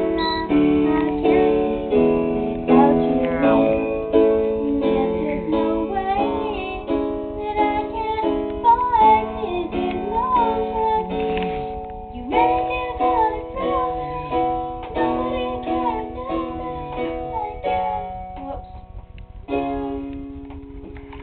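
A girl singing along to a plucked string instrument such as a ukulele, its notes ringing out and fading one after another. About three quarters of the way through the playing drops quieter for a moment, then picks up again.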